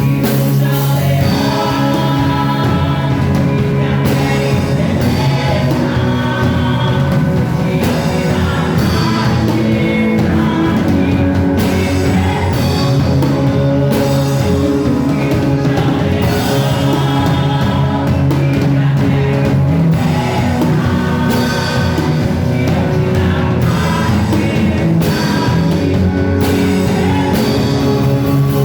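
A live worship band playing with singing: voices over electric guitar and a drum kit, loud and steady.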